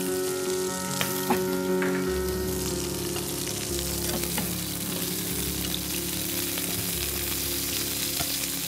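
Chicken wings frying in oil in a pan, a steady loud sizzle. A few light clicks sound in the first couple of seconds.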